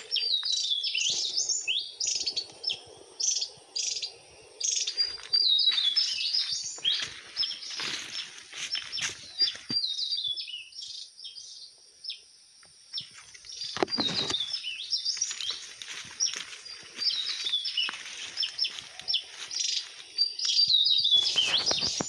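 Cililin birds calling in quick, high chirps and twitters, one run after another, with a lull about halfway through. A faint steady high-pitched tone sits underneath.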